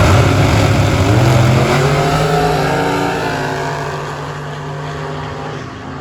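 Drag car launching and accelerating hard down the strip. The engine is loud at first, its note rises over the first few seconds, then it fades as the car pulls away.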